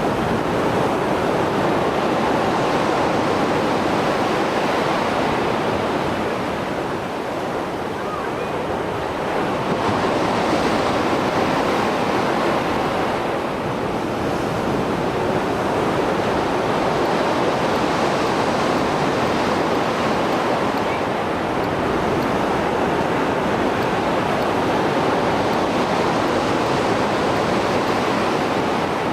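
Heavy Mediterranean surf after a storm, waves breaking and washing on the shore in a continuous loud rush that swells and eases every several seconds.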